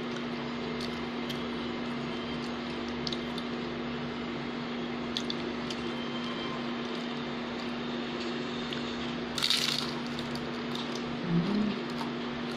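A person chewing a fried bean-sprout spring roll close to the microphone: soft wet mouth sounds and small clicks, with one brief louder hissy burst about ten seconds in and a short hummed "mm" near the end, over a steady low hum.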